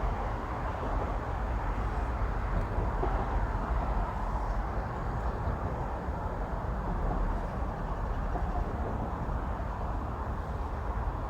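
Steady low rumbling outdoor background noise without distinct events.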